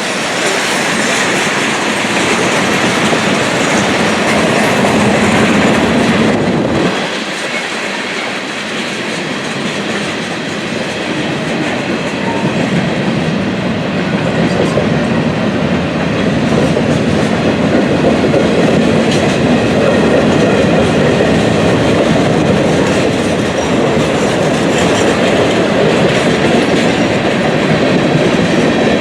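Freight train cars rolling past, their wheels clacking steadily over the rail joints, with a brief dip in the noise about seven seconds in.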